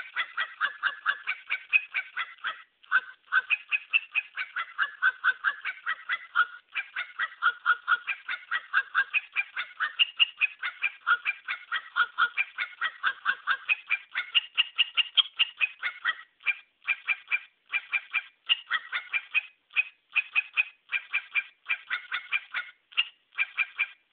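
A puppy's rapid, high-pitched yips, about three to four a second, kept up steadily with a few brief pauses, in a sing-song run the owner calls singing.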